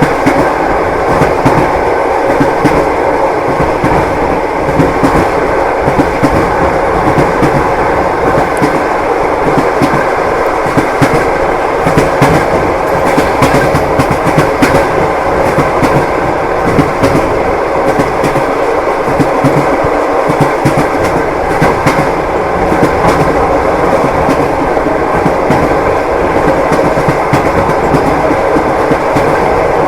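Train wheels clacking on the rails, over a steady rumble of the moving railway carriage, with sharp irregular clicks throughout.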